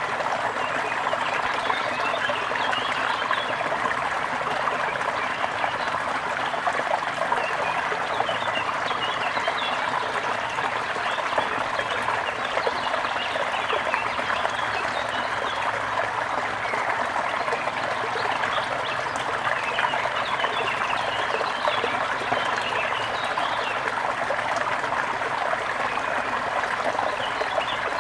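Water trickling and splashing steadily, with many small birds chirping over it.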